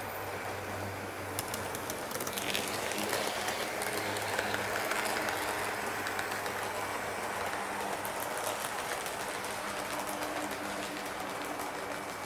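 HO scale model train, a Lima E 10 locomotive hauling sleeping cars, running along the layout track: a steady motor hum with scattered clicks of wheels over the rail joints, a little louder a few seconds in.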